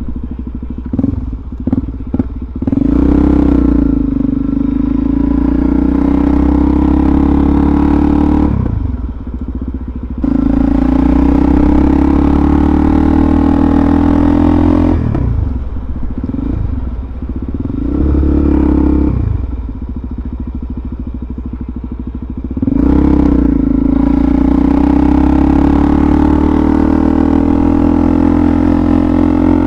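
Suzuki DRZ400SM's single-cylinder four-stroke engine under way. It gives a few short throttle blips at the start, then pulls in long stretches with the pitch climbing slowly, easing off twice in between.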